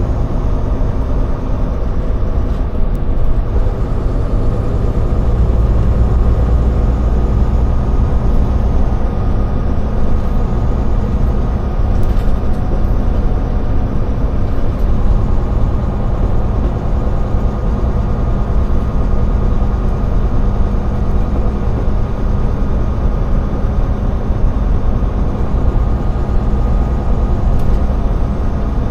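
Semi truck tractor's diesel engine running steadily on the road, with low rumble and road noise heard from inside the cab.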